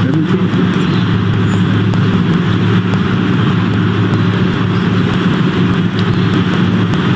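Steady mechanical drone of a running engine: a constant low two-tone hum under a broad even rush, with no change in pitch or level.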